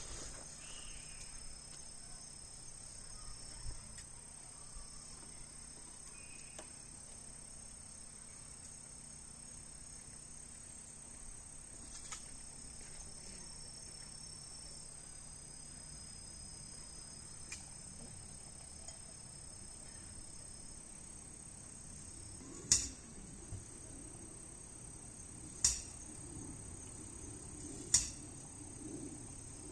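Crickets and other insects trilling steadily in a continuous high-pitched chorus, with three sharp clicks near the end, two to three seconds apart.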